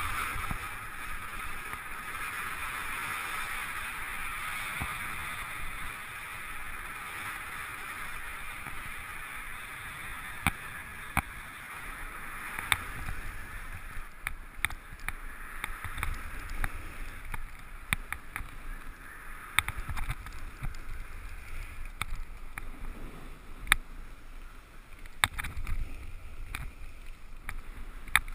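Riding down a groomed run of packed powder: a steady hiss of edges sliding on the snow that fades over the first few seconds, with gusts of wind rumbling on the microphone. Sharp clicks and ticks are scattered through the second half.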